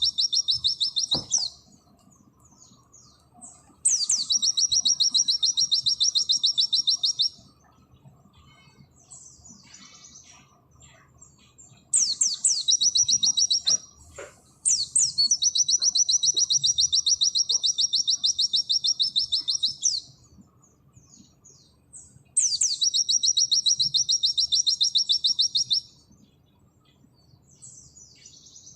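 A pleci (white-eye) singing in the 'nembak' style: long, rapid, high-pitched trills of repeated notes, each opening with a quick upward sweep. The bouts last a few seconds each, with pauses of soft chirps between them.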